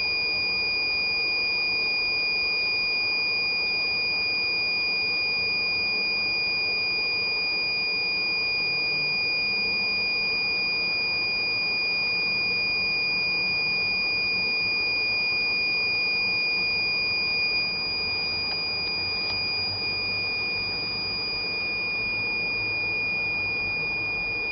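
Inverter-powered 1000-watt electric preheater system running: a steady high-pitched whine with a fainter tone above it, over a low even hum.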